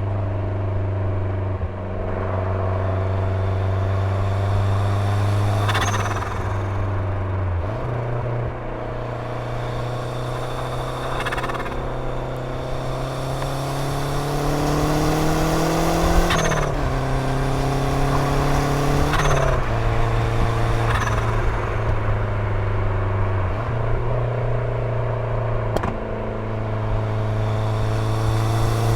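The turbocharged 2.0-litre four-cylinder engine of a 1989 Lancia Delta Integrale 16V under way. Its note holds steady, climbs as the car accelerates, then drops sharply at each gear change, a few times over.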